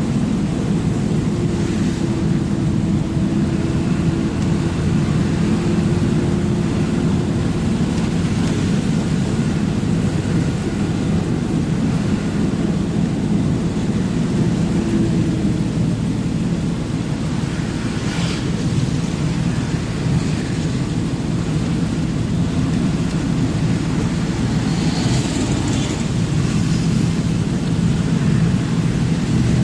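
Truck engine running with a steady low rumble of road noise. A held drone is heard in the first half, and there are a few faint ticks.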